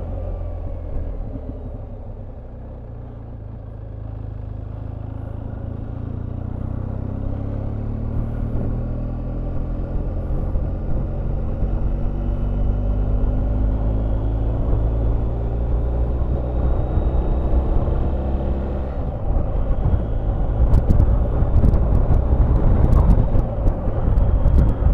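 Motorcycle engine pulling away and gaining speed, its pitch rising slowly and steadily and its sound growing louder, over a steady low wind rumble. About three quarters of the way through the engine note changes abruptly and a few sharp clicks follow.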